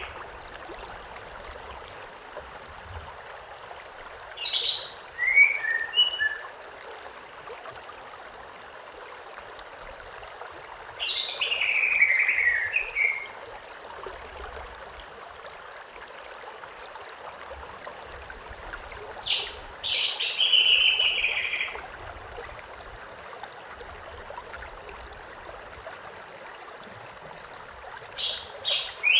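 Steady rush of a flowing river, with a songbird singing short phrases that slide downward in pitch about five, twelve and twenty seconds in, and again at the end.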